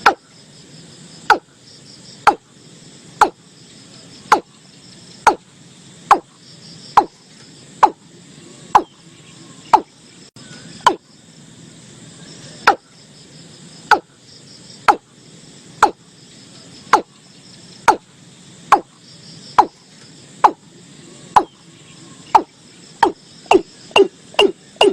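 Watercock calling: a series of short, loud notes, each falling in pitch, about one a second, speeding up near the end. Insects trill faintly behind.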